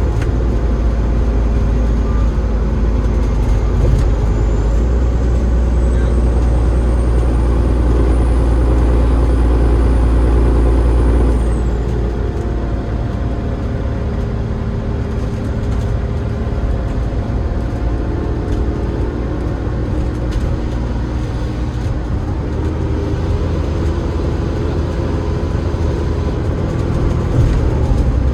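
Double-decker bus's Cummins ISL8.9 diesel engine and ZF EcoLife automatic gearbox running under load with a heavy low drone. A thin high whine rises slowly in pitch over several seconds, holds, then drops away when the engine note eases off about eleven seconds in. The bus then runs on more quietly.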